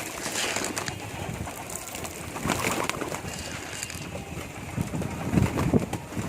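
Domestic pigeons cooing, low throaty coos that come thicker near the end.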